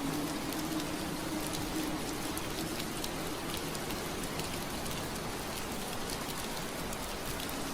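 Steady rain pattering on window glass, an even hiss with scattered sharp drop ticks. A low steady hum under it fades out in the first couple of seconds.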